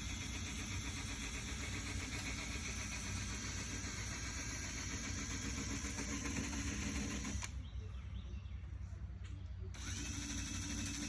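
Power sanding tool grinding old paint off the underside of a car hood, its motor running steadily. About seven seconds in, the higher part of the sound drops out sharply for about two seconds and then comes back.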